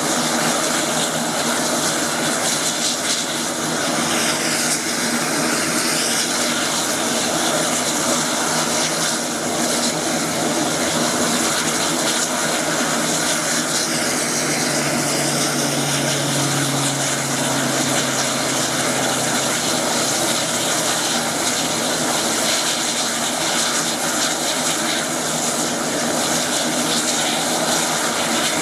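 Air Tractor 802 agricultural plane's turboprop engine and propeller running steadily, a continuous loud drone with no break.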